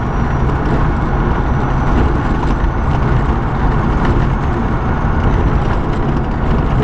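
Semi truck driving at road speed, heard from inside the cab: steady engine drone mixed with road and tyre noise.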